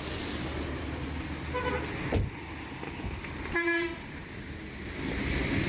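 Road traffic with a vehicle engine running steadily, a short horn toot about three and a half seconds in, and a single knock a little past two seconds.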